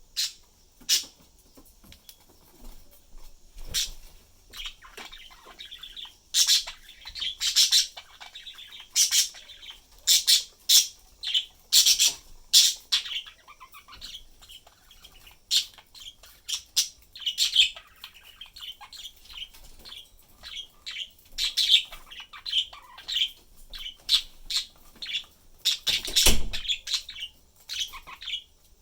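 Pet budgerigars chirping and chattering, a run of short high chirps coming in clusters with brief pauses. A louder brief noise sounds near the end.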